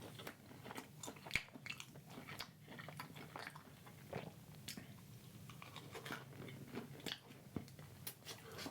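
A person chewing and biting food close to the microphone: irregular, short, moist clicks, several a second.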